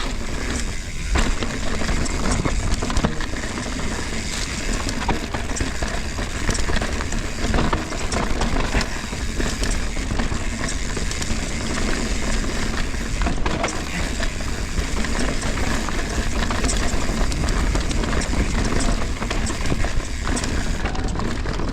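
Mountain bike ridden over a rocky, rooty trail: steady tyre and trail noise with frequent clicks and knocks from the bike over the rocks.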